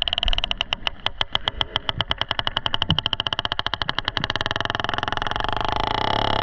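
Sperm whale echolocation clicks: a fast, even train of about ten sharp clicks a second that stops after about four seconds, the whale scanning a diver at close range.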